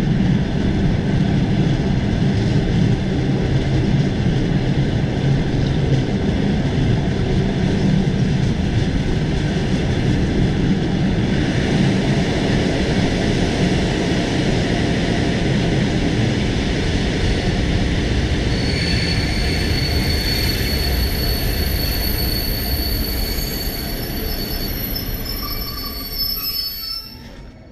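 Train running on the rails, heard from aboard, a steady loud rumble of wheels and carriage. From about two-thirds of the way in, thin high squealing tones from the wheels join it, and the sound eases off near the end.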